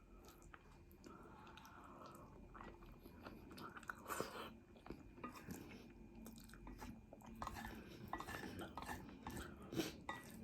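Faint sounds of a person chewing and eating food: scattered small mouth clicks and crunches, a little louder about four seconds in.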